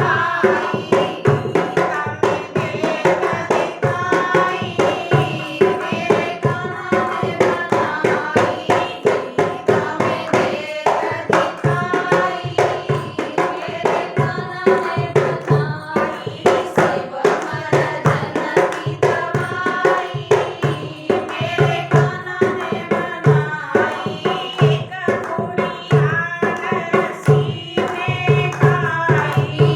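Hindi devotional bhajan sung to a steady rhythm, with percussion beating sharp, fast, regular strokes under the melody.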